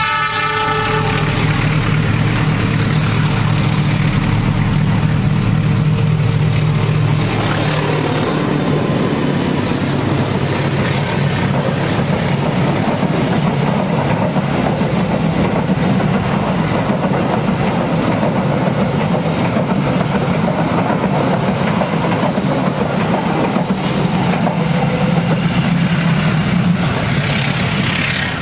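Diesel passenger train passing close by: the locomotive's engine hums steadily as it comes past, then from about seven seconds in the coaches rumble by with their wheels clattering on the rails.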